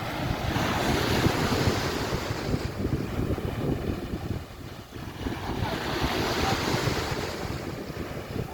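Surf washing onto a beach, swelling twice, with wind buffeting the microphone.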